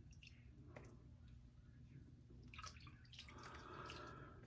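Near silence: room tone with a few faint clicks, and a faint hiss in the last second or so.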